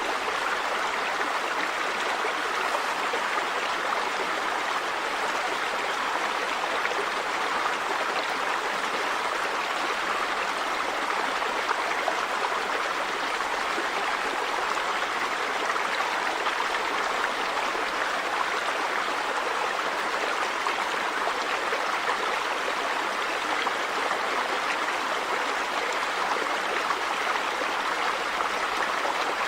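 River water running over rocks: a steady, even rush with no breaks.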